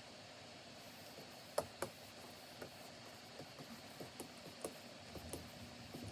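Light, irregular taps and clicks at a Wacom Cintiq pen display workstation while drawing, over a faint steady hiss, with two louder clicks about a second and a half in. A low rumble starts to rise near the end.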